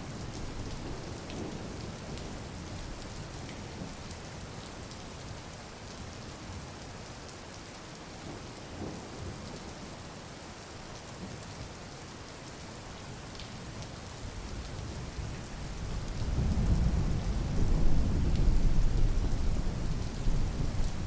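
Steady rain falling. About two-thirds of the way through, a low rumble swells up, becomes the loudest sound, and eases off near the end.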